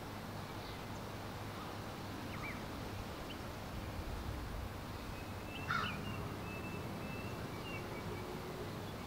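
Outdoor ambience: a steady background hiss with a few faint bird chirps and one louder bird call about six seconds in, trailing into a thin held whistle-like tone.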